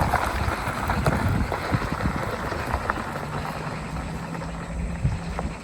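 Car driving slowly over a rough, stony off-road track: tyres crackling and crunching on loose stones over a low rumble, with a steady engine hum coming in about halfway.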